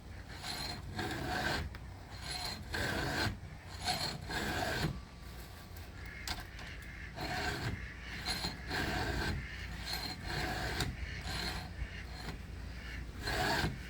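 Chainsaw chain being hand-filed with a steel file sharpener: a run of repeated rasping strokes across the cutter teeth, roughly one every half second or so, with short breaks between groups of strokes.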